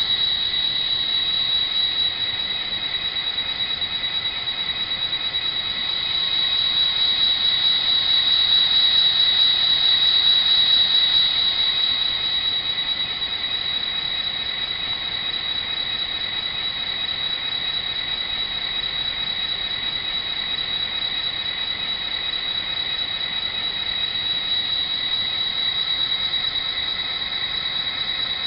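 Model locomotive sound decoder playing a turbocharged EMD diesel engine sound through the model's small speaker, running steadily with a strong high-pitched whine. It swells louder about six seconds in and eases back about six seconds later.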